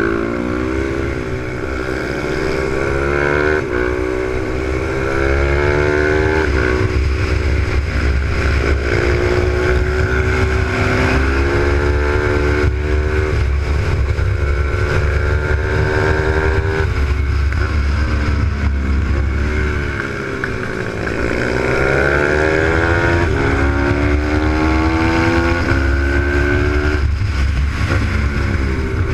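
Pit bike's Zongshen Z155 single-cylinder four-stroke engine heard onboard, its pitch repeatedly climbing as it accelerates and falling away as it backs off, dipping lowest about twenty seconds in, over a steady low rumble on the microphone.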